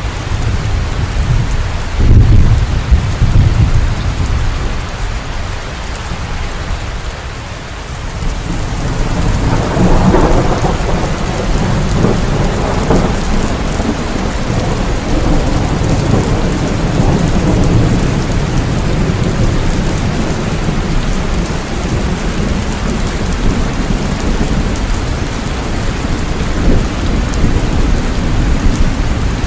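Steady rain with thunder: a sudden low crack about two seconds in, then a long rolling rumble that swells from about ten seconds in and slowly fades under the rain.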